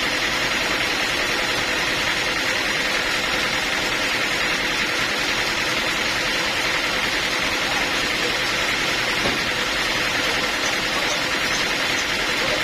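Steady, unchanging noise of sawmill machinery running.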